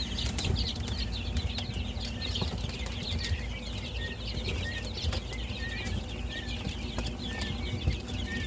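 A brooder full of guinea keets peeping, many high, short chirps overlapping without a break, with a few clearer, evenly spaced calls coming in from about three seconds in. A low steady hum runs underneath.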